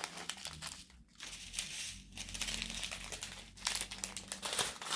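Small plastic bags of diamond-painting drills crinkling as they are handled and sorted.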